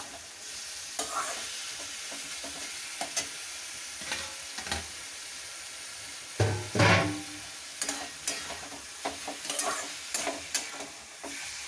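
Chicken pieces frying in a spice paste in a pan, sizzling steadily while a spatula stirs and scrapes through them. A louder burst of stirring comes about six and a half seconds in.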